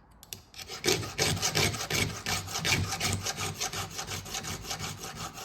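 Flat file rasping across the steel rakers (depth gauges) of a chainsaw chain in quick, repeated strokes, starting about a second in.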